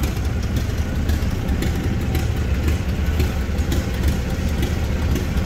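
Antique tractor engine running steadily at idle.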